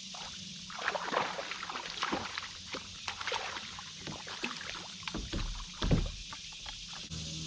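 Kayak paddle strokes in creek water: an irregular run of splashes and drips, with a heavy low thump about six seconds in.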